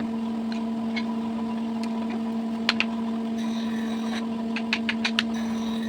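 A machine's motor runs with a steady hum, while a few sharp knocks and clicks sound, two close together about two and a half seconds in and several more near the end, with a short hiss between them.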